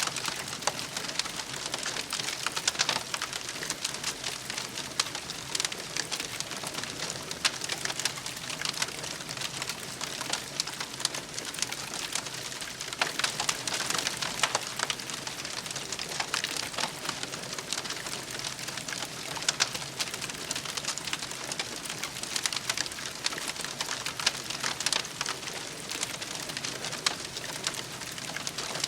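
Wood fire burning with constant crackling and popping.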